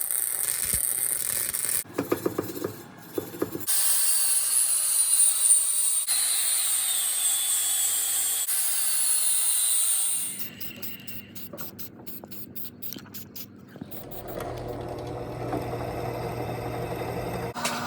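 Workshop tool sounds in a string of short cuts: a hissing grind with a slowly falling high whine, then rapid even rasping strokes, then a steady motor hum.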